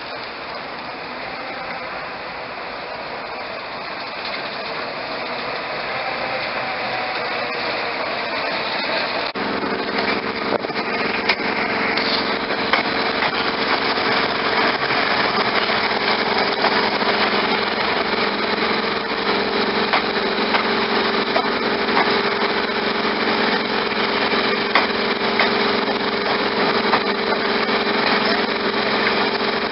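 Diesel train running and growing louder. About nine seconds in, a steady drone of several held tones sets in, with a scatter of short clicks over it.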